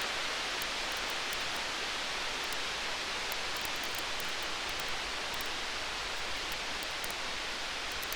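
Steady hiss of storm ambience with faint, scattered campfire crackles; no thunder rumble stands out.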